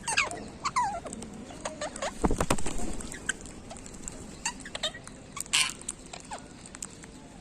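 Pet parrots making short falling chirps and chattering calls, mixed with scattered clicks and scratches. There is a low thump about two seconds in.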